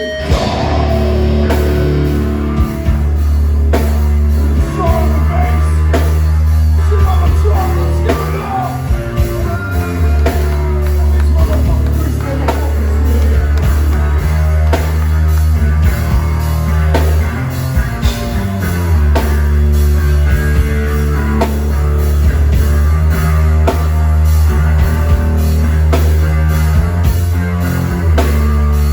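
Live heavy metal band playing loud: distorted guitars and bass over a pounding drum kit, with vocals on top. The full band comes in right at the start.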